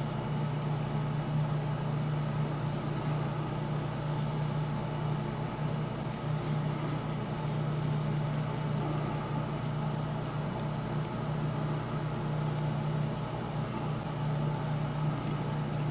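Steady low machine hum, one even pitch with faint overtones, from a fan or similar motor running in the background. A faint click about six seconds in.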